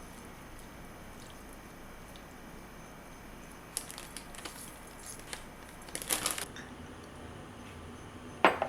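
A few light clicks and knocks of tableware being handled, the loudest cluster about six seconds in and a sharper knock near the end.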